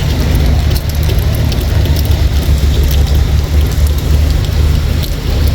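Light rain outdoors: a steady low rumble with rain pattering and scattered drip ticks.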